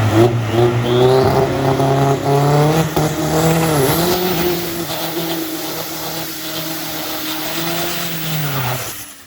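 Drag race car's engine held at high revs down the strip. The pitch dips briefly about four seconds in, like a gear change. It slowly gets quieter, then cuts off suddenly near the end.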